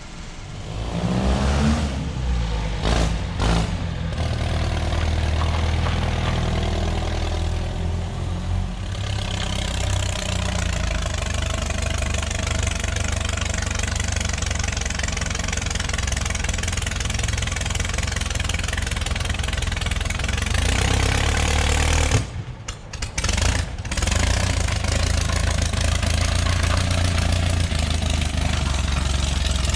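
GM 3.0-litre four-cylinder engine in a mini rail dragster starting, rising in pitch as it catches and revs, then running steadily. The sound drops out briefly twice about three-quarters of the way through.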